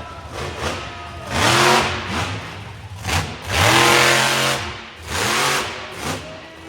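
Monster truck engine revving hard in three big surges, each climbing in pitch and falling back, with the engine running lower between them.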